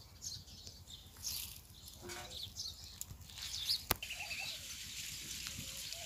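Faint birds chirping, with one sharp click a little before four seconds in.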